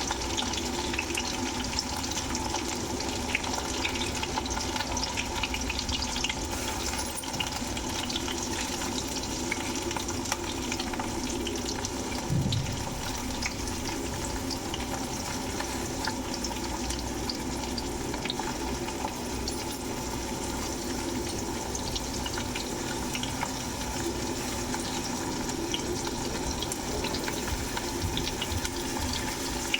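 Chopped onions frying in hot oil in a pan, a steady sizzle with many small crackles, as they cook down toward dark brown.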